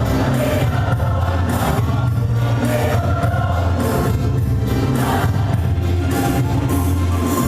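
Church youth choir singing, holding long sustained chords that change every second or so over a steady low bass.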